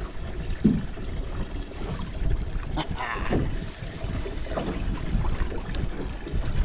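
Sea water lapping and trickling against a small boat's hull, over a steady low rumble, with a few brief splashy knocks.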